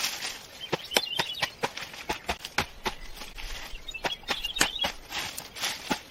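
Irregular sharp knocks or taps, a few a second, over a steady outdoor hiss, with short bird chirps about a second in and again near the end.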